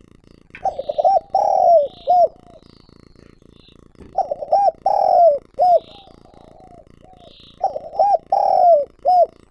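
Spotted dove cooing: three phrases about three seconds apart, each a few quick notes, then a long drawn note and a short final note. Faint high chirps sound between the phrases.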